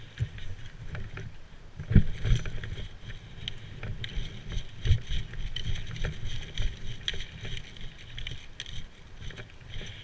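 Rustling and thudding handling noise from a camera carried by a moving player, with many short sharp clicks scattered through it and the heaviest knock about two seconds in.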